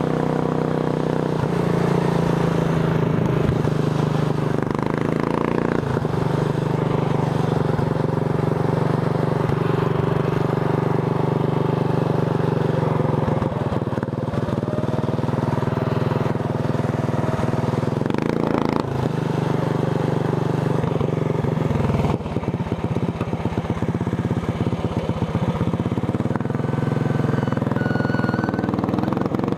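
Racing lawn tractor's engine running hard at riding speed, its pitch stepping up and down several times as throttle and speed change.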